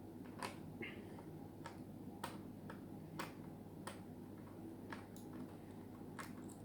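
Faint, sharp clicks of a small screwdriver on a laptop screw, coming irregularly about once a second as a screw is driven in to fasten the DVD drive.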